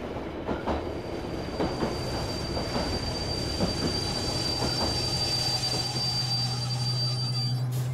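Passenger train running on rails: a steady rumble with scattered clacks, and a steady high-pitched wheel squeal that cuts off just before the end. A low hum joins about two seconds in.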